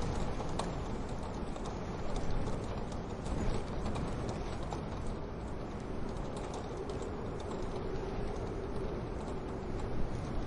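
Wood fire crackling in a wood-burning stove: many small scattered pops and snaps over a steady low rush.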